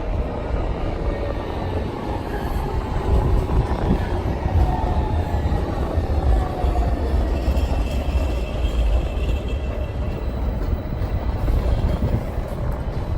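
Street tram running past, a steady low rumble with a faint whine that slowly falls in pitch.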